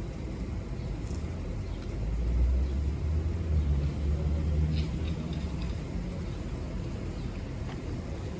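Low rumble of a passing road vehicle, swelling about two seconds in and fading after about five seconds, under faint murmuring voices.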